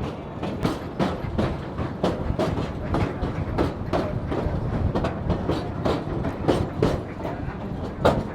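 Narrow-gauge railway car rolling along the track: a steady rumble with frequent clicks and knocks of the wheels over the rail joints, the sharpest knock near the end.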